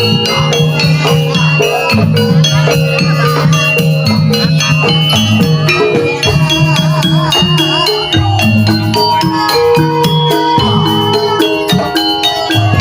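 Javanese jaranan music: struck metallophones play repeated notes over drumming and rattling percussion, with a wavering melodic line coming in near the middle.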